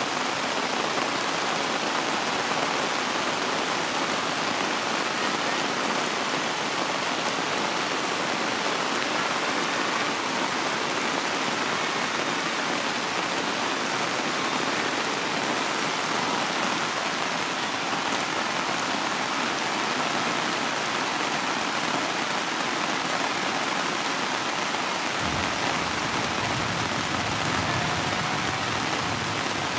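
Heavy rain falling steadily. Near the end a deeper, lower noise joins in under the rain.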